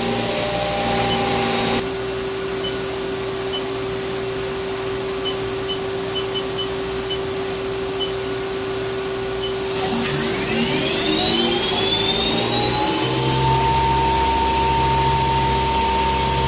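Haas SL20 CNC lathe running with a steady electric whine and hum. A high tone cuts off about two seconds in. About ten seconds in, a motor whine rises in pitch over about three seconds and then holds steady, like the spindle spinning up to speed.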